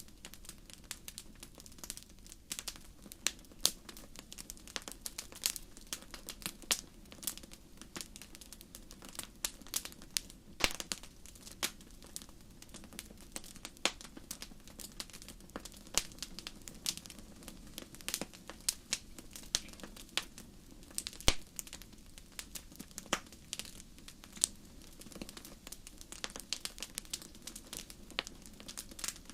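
Fire crackling: irregular sharp pops and snaps, a few louder than the rest, over a low steady hiss.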